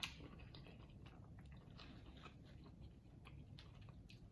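Faint chewing of king crab meat: scattered soft mouth clicks, with a slightly louder click about the start.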